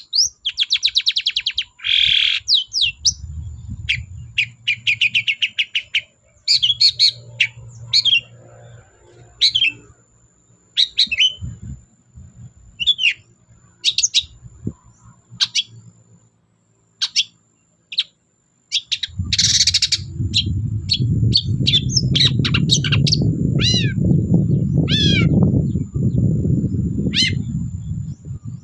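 Long-tailed shrike (cendet) singing busily: a fast run of sharp chirps, short trills and down-slurred whistled notes with brief gaps. A loud low rumble comes in about two-thirds of the way through and continues under the song.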